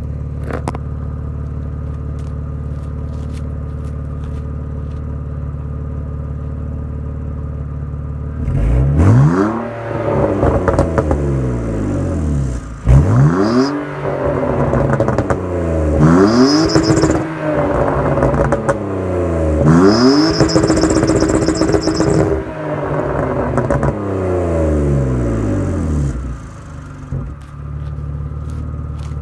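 BMW E46's M54B22 2.2-litre straight-six idling steadily, then revved four times about eight seconds in, each rev falling back with crackles and pops from the exhaust on the overrun (a 'popcorn' exhaust tune), before settling back to idle near the end.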